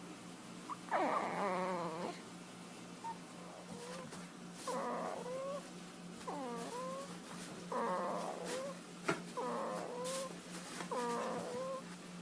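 A baby cooing contentedly: about six short, pitched coos with wavering, falling pitch, spaced a second or two apart. The first is the longest.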